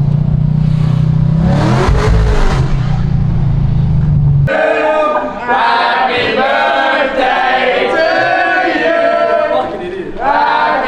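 A car engine running with a steady low drone and a couple of brief revs, cut off abruptly about four and a half seconds in by a cappella choir singing, sustained voices in harmony.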